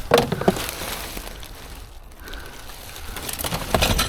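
Rubbish being rummaged through and picked up in a skip. There is a quick clatter of knocks and rattles at the start and another near the end, with quieter handling noise between them.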